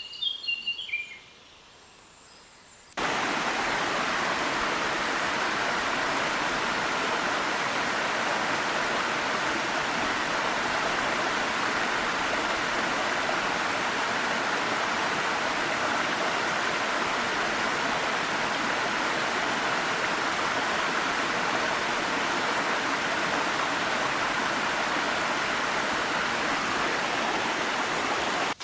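Birds chirping briefly at the start, then a small mountain waterfall starts abruptly about three seconds in, a loud, perfectly even rush of falling water.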